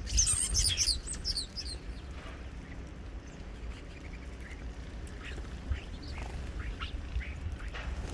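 Birds calling at a feeder: a quick burst of high chirps in the first second or so, then scattered short calls over a low rumble.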